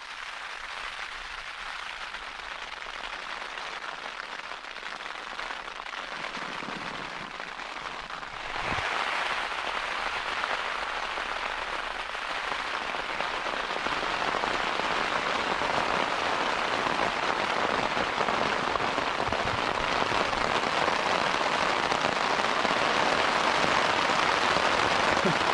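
Heavy rain drumming on a Hilleberg tent's flysheet, heard from inside the tent as a steady hiss. It grows louder about eight seconds in and keeps building.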